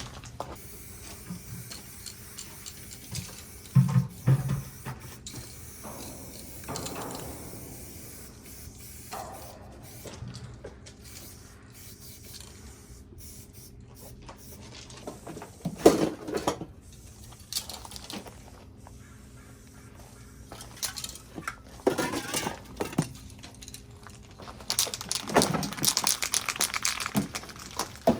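Aerosol spray paint cans hissing in several separate bursts, the longest lasting about two seconds near the end, with a few knocks and clatter between them.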